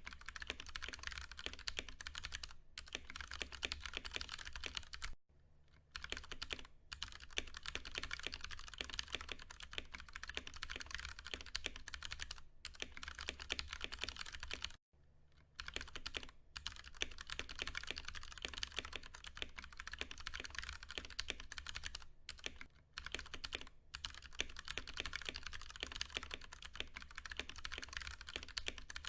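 Continuous fast typing on a Ducky One 2 Mini keyboard with Cherry MX Brown tactile switches, a dense run of key clacks broken by brief pauses about five and fifteen seconds in, over a faint low hum.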